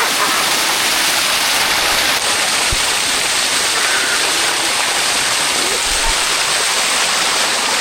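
Water running down a limestone waterfall cascade close by: a steady, full rush of falling and splashing water.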